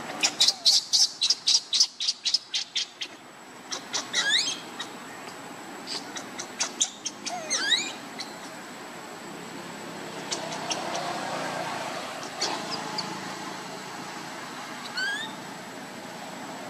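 Birds calling. A quick run of sharp chirps comes over the first three seconds, about six a second. After that, short calls that sweep upward in pitch sound now and then.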